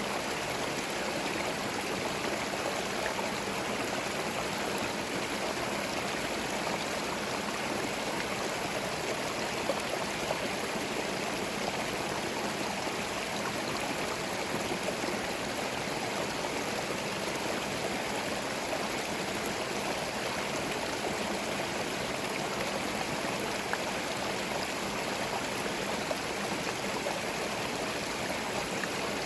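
Small forest stream flowing and gurgling over stones, a steady even rush of water.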